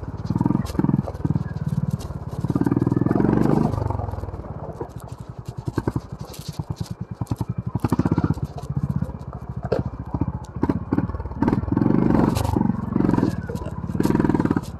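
Honda CB350 RS's air-cooled single-cylinder engine, heard from the rider's helmet, opening up in short throttle bursts near the start and again near the end. In between it runs off throttle at low revs in slow, distinct thumps. Scattered clicks and clatter come from the rough trail.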